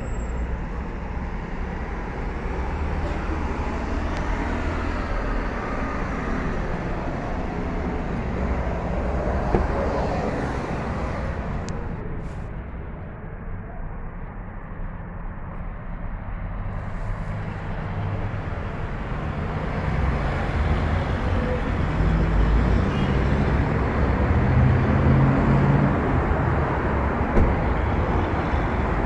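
Motor vehicle noise: a steady low engine and road rumble. It eases off somewhat midway, then grows louder with a pitched engine note near the end.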